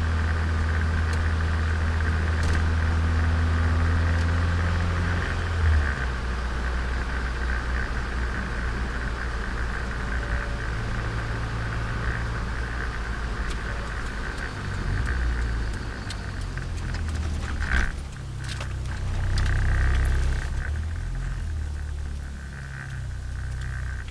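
Turbocharged Nissan Micra engine heard onboard while driving. Its note holds steady for about five seconds, changes abruptly near six seconds, then rises and falls with a few knocks near the end.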